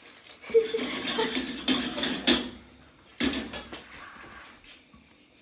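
Kitchen utensils and dishes clattering: a run of knocks and clinks over the first two and a half seconds, one more sharp knock about three seconds in, then quieter.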